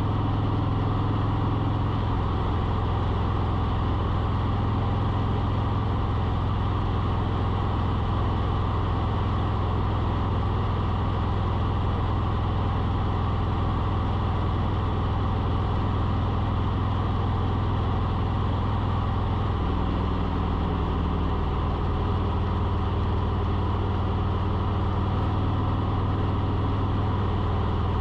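Steady low engine hum, like a motor running at a constant idle, with a deep droning tone that shifts slightly a couple of times.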